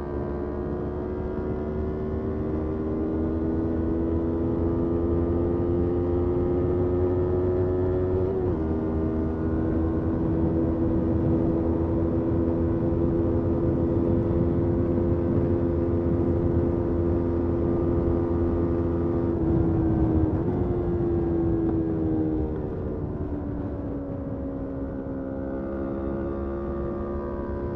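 Motorcycle engine pulling steadily while riding, its note slowly climbing. It drops abruptly at an upshift about eight seconds in, then holds steady. Past twenty seconds the revs and loudness fall away as the bike rolls off the throttle, then it settles at a lower, steady note.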